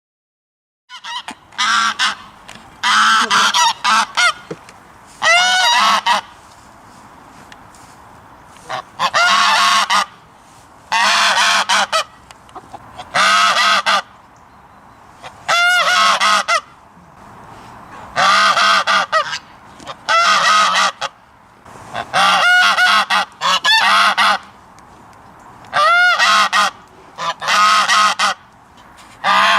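Geese honking: loud, repeated honks in short bursts about every two seconds, starting about a second in.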